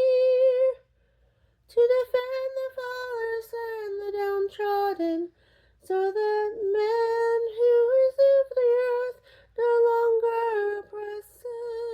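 A woman's mezzo-soprano voice singing a slow, unaccompanied melody in long held notes, with short pauses for breath about a second in and again around five seconds in.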